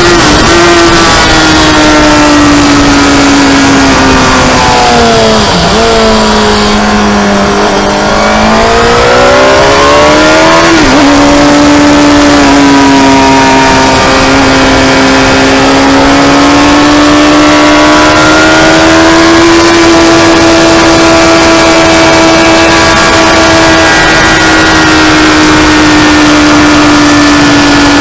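Motorcycle engine running hard at high revs, heard onboard with heavy wind rush. The revs drop for a corner about five seconds in, with quick breaks at gear changes around five and eleven seconds, then climb and hold high again.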